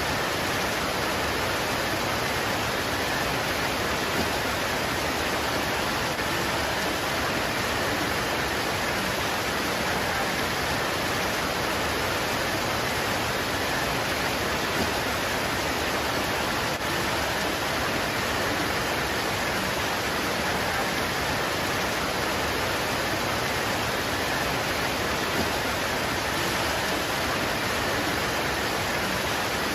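Steady rain pouring on leaves: an even, unbroken hiss that holds the same level throughout, with no single drops standing out.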